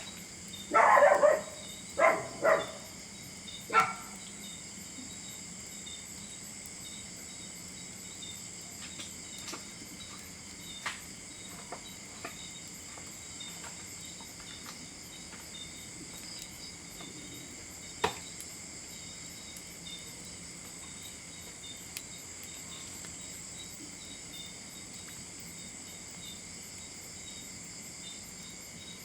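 A dog barks four times in the first few seconds over a steady high chirring of crickets, followed by a few faint clicks.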